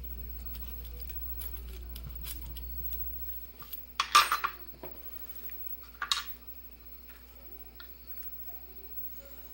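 Metal padlock parts clinking as the lock is taken apart: a sharp cluster of clinks about four seconds in, the loudest sound, and another single clink about two seconds later. A low hum stops just before the first clinks.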